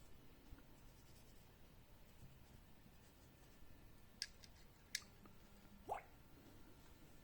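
Near silence broken by a few faint, sharp clicks from Glock 44 slide parts being handled during reassembly: two clicks a little past the middle, then a short squeak that rises in pitch.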